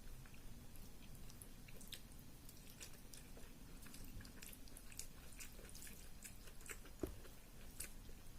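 Close-miked chewing of a soft rice and curry meal: many small, wet mouth clicks. One sharper knock about seven seconds in.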